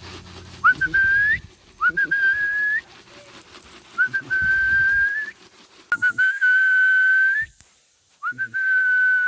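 A person whistling five long, level notes in a row, each starting with a short rising chirp and lifting slightly at the end.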